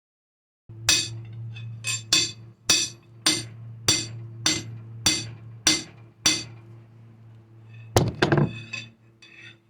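Blacksmith's hammer striking hot steel on an anvil in a steady rhythm, about ten ringing blows a little over half a second apart, over a steady low hum. A heavier clanging blow and clatter follow about eight seconds in.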